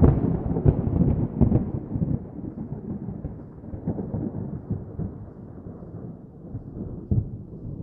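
Muffled low rumbling with irregular knocks, loudest in the first two seconds and dying down gradually.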